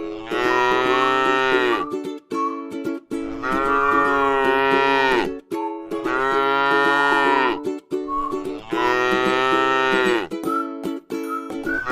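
A cow mooing over and over: long, drawn-out moos of about two seconds each, one after another with short pauses between them.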